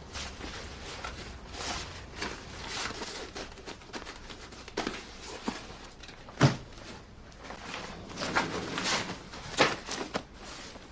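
Footsteps and light handling knocks at irregular intervals, with one heavier low thump about six and a half seconds in.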